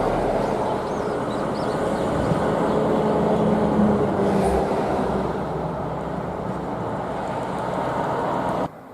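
Heavy tractor truck hauling a subway car on a low-loader trailer, its diesel engine running under load with tyre and road noise as it passes. The sound cuts off suddenly near the end.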